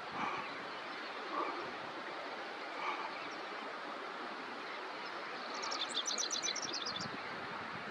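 Rufous-crowned sparrow singing: a quick series of short, high notes lasting about a second, a little past the middle, over a steady outdoor hiss.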